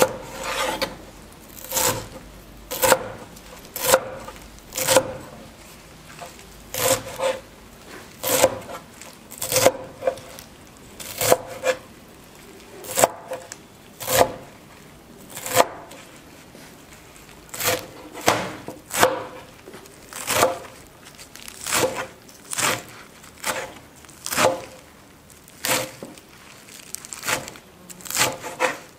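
A kitchen knife working food against a wooden cutting board, in short rasping strokes at an uneven pace of about one a second.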